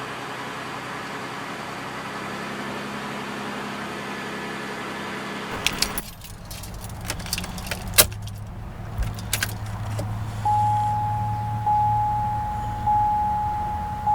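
2004 Buick Rendezvous V6 running steadily for about five seconds until its sound cuts off. Then keys jangle and click in the ignition. From about ten seconds in, the car's warning chime sounds repeatedly, roughly once a second.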